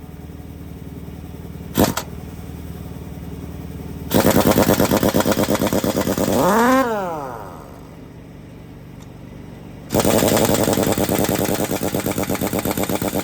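Pneumatic impact wrench on the truck's wheel-hub nuts: two long bursts of rapid hammering. The first burst ends in a whine that rises and then falls. A single sharp click comes shortly before, over a low steady hum.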